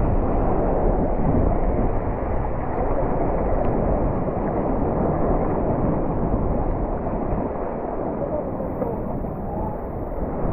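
Strong wind buffeting the microphone over rough sea, a steady heavy rumble and wash of waves around a kayak.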